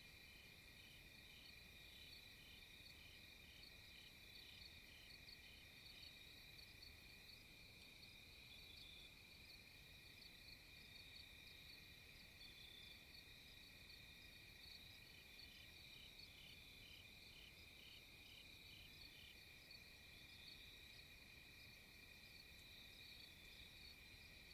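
Faint chorus of insects: a steady high-pitched trill with regular chirps, about two or three a second, that come in runs and pause now and then.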